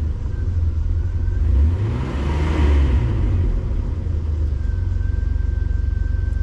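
2006 Jeep Wrangler engine revved a few times with no load, the revs climbing to a peak about two and a half seconds in and then settling to a steady run. It is being revved so the new vacuum gauge can be read, but without load it does not pull into the power range.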